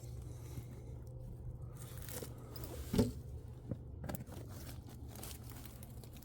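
Footsteps crunching through dry leaves and brush, irregular crackling with a louder crunch about three seconds in.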